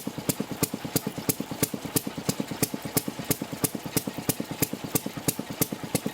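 Water-cooled single-cylinder two-stroke Sheffield railroad track-car engine running slowly and steadily, with sharp, even beats about three times a second and softer knocks between them.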